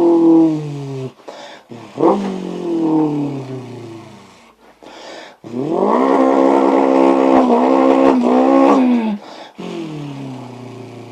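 Vocal imitation of an old-school Toyota Corolla's BEAMS engine: several revs whose pitch falls away as if shifting through the gears, with a sharp blip about two seconds in. In the middle a long high note is held steady for about three seconds before it drops off, and the pitch winds down again near the end.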